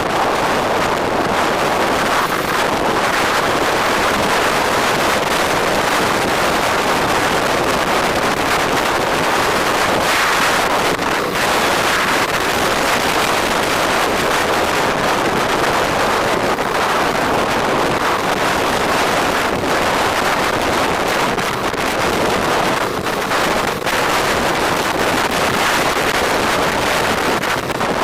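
Steady loud wind rush over the microphone of a moving motorcycle.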